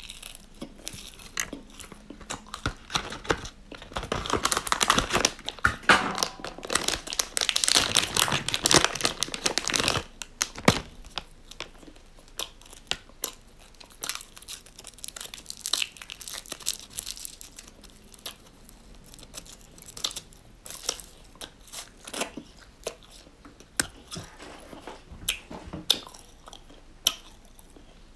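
Close-miked chewing and mouth clicks from someone eating spicy snacks, together with crinkling and tearing of a small foil snack wrapper being opened. The loudest part is a dense stretch of crinkling about four to ten seconds in, followed by scattered sharp clicks.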